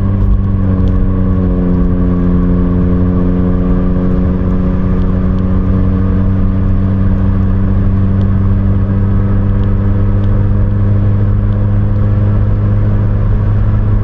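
Exhaust drone of a 2007 Pontiac Vibe's 1.8-litre 1ZZ-FE four-cylinder running with the muffler deleted, heard inside the cabin with the windows up while cruising at about 60 mph, mixed with tyre and road noise. The deep steady drone holds throughout; a set of higher tones comes in about a second in and slowly sinks a little.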